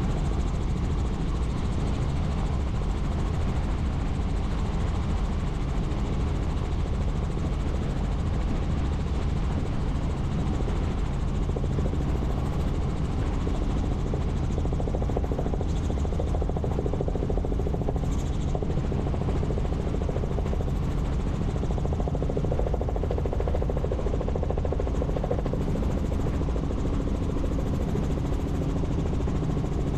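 Helicopter running steadily in cruise: the even low rotor and turbine drone heard from inside the cabin.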